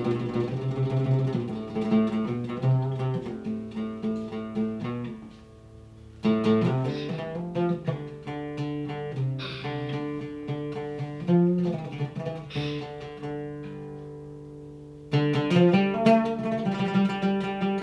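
A short solo melody played on a freshly restored 1952 Damascus-made oud, plucked notes in three phrases with brief pauses about five and fourteen seconds in. The tone is clean, with no string buzz.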